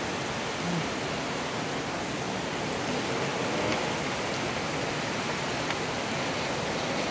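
Steady rain falling, an even hiss of drops without let-up.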